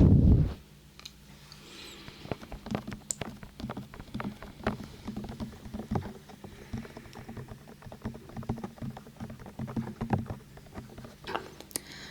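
Close-up fingertip tapping and clicking on a binaural microphone: many quick, light taps a second, with a loud low thump at the very start.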